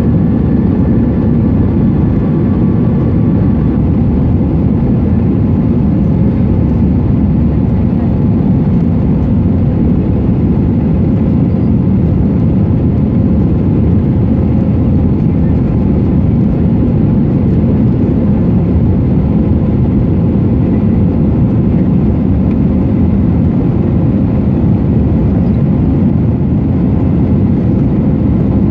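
Steady roar of an Airbus A320-214 cabin in flight: its CFM56-5B engines and the airflow over the fuselage, deep and unchanging.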